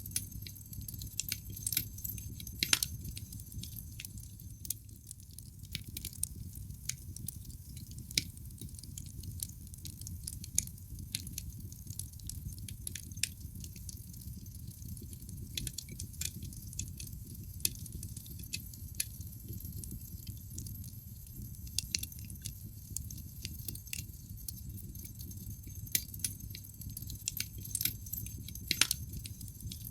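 Wood fire burning in a fireplace, crackling: irregular sharp pops and snaps over a low, steady rumble of the flames, with a louder pop about three seconds in and another near the end.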